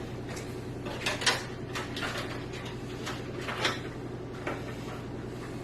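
Hands handling PC parts and cables inside a computer case: scattered light clicks and rustles, the sharpest about a second in, over a steady low hum.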